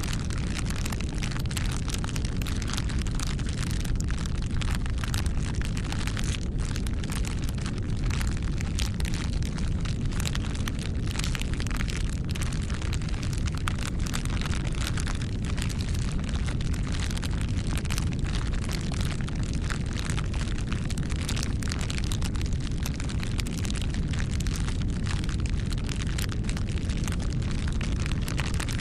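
Wood bonfire burning, a steady low rumble of flame with frequent, irregular sharp crackles and pops from the burning wood.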